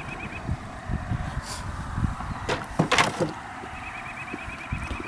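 Handling noise as the syrup feeder can is worked out of a honey bee package box: a few sharp knocks and scrapes about halfway through, over a low rumble of wind on the microphone.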